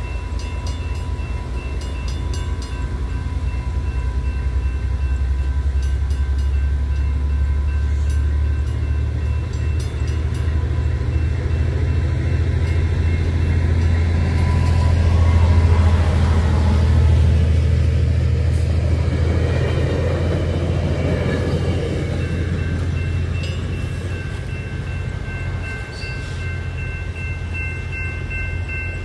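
Trinity Railway Express diesel train engine rumbling at a crossing, growing louder to a peak about halfway through and then easing off. The crossing's warning bell rings steadily over it, drowned out while the engine is loudest.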